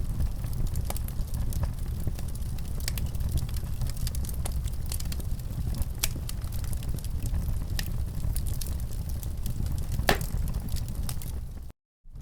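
Wood fire crackling in a fireplace: scattered sharp pops and snaps over a steady low rumble, with one louder pop about ten seconds in. The sound cuts out briefly just before the end.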